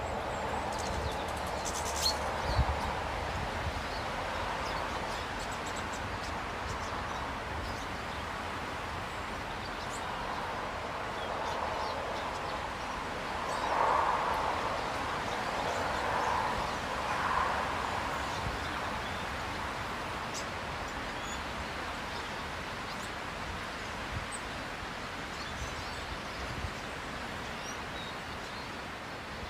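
Outdoor ambience: a steady rushing noise that swells for a few seconds in the middle, with a few faint, short bird calls.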